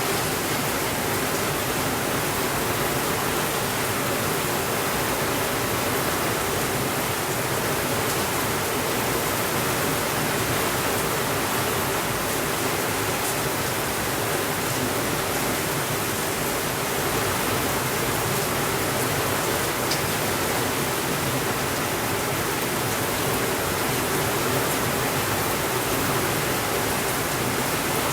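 Heavy rain falling steadily, an even hiss that does not change in level.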